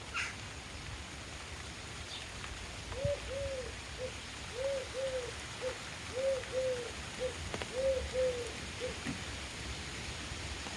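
A pigeon cooing: about four phrases of low, soft coos in threes, from about 3 seconds in to near the end. There are a couple of faint, brief higher chirps from small birds near the start.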